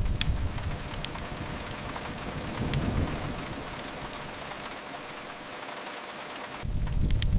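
Steady rain hiss with a wood fire's scattered sharp crackles and pops. A low rumble fades out in the first half second, swells briefly about three seconds in, and returns louder near the end.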